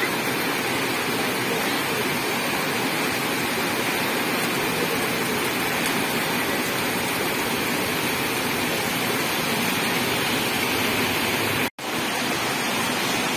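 Heavy rain pouring onto a flooded road surface: a dense, steady hiss of falling water. It is broken once by a split-second gap near the end.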